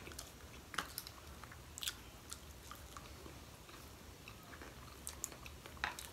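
Close-up chewing of maki sushi rolls with full mouths: quiet, with scattered short wet clicks and smacks.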